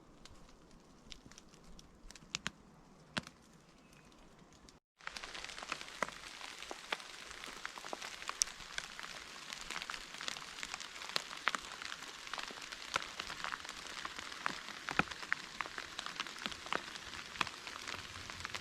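Rain falling on the woods. At first only scattered drops tick over a faint hiss; about five seconds in the sound cuts to heavy rain, a dense patter full of sharp individual drop hits.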